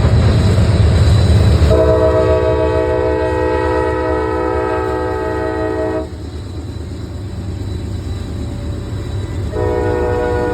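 Freight locomotive's multi-tone air horn sounding a chord: one long blast of about four seconds starting a couple of seconds in, then a second blast starting near the end. Under it runs the steady low rumble of the locomotive and its train.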